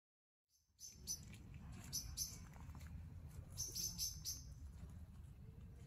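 Small birds chirping in short, high, repeated bursts over a steady low rumble, starting just under a second in.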